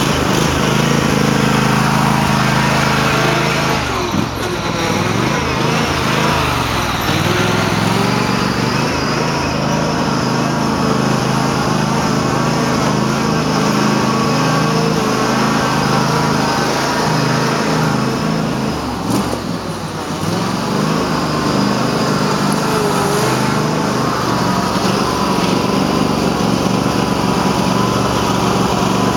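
Cub Cadet garden tractor engine running hard at high revs while mudding, dipping briefly twice. The owner says the tractor is running poorly for a reason he doesn't know.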